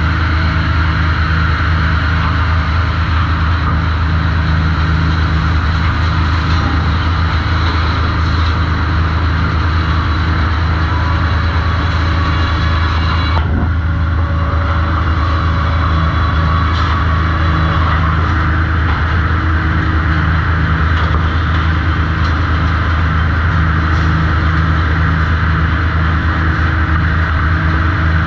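Sawmill machinery running steadily with a deep, even hum, a few light knocks, and one sharp clack about thirteen seconds in.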